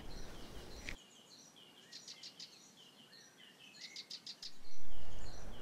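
Small birds chirping: short, high, repeated calls over a quiet background. In the last second a low rushing noise swells up and becomes the loudest sound.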